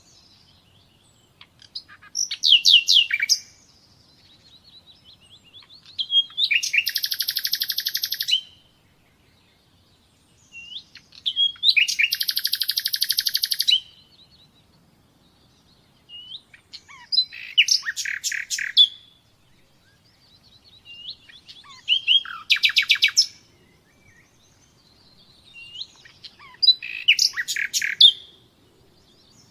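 A songbird singing, repeating a short song phrase about every five seconds with pauses between. The phrases mix fast high trills with buzzy held notes.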